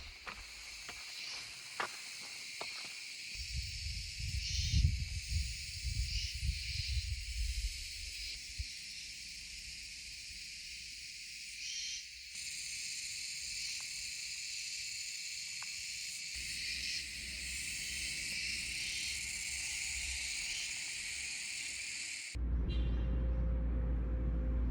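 Insects chirping in a dense, steady high-pitched chorus, with low rumbling gusts in the first few seconds. Near the end it cuts abruptly to a loud, low, steady hum.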